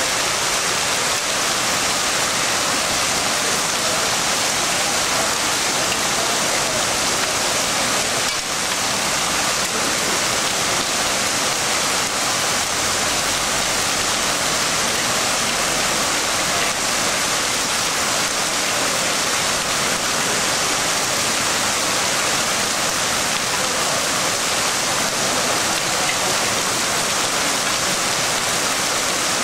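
Heavy rain of a thunderstorm falling steadily, an even rushing hiss that does not let up.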